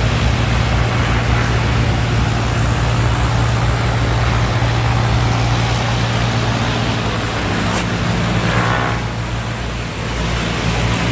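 Engine-driven pressure washer and vacuum-recovery surface cleaner running steadily on the concrete pad: a constant low engine hum under a dense hiss of spraying and suction, with a short higher whine about eight seconds in.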